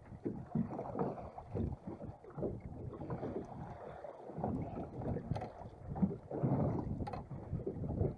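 Wind buffeting the microphone aboard a small fishing boat, coming in irregular gusts.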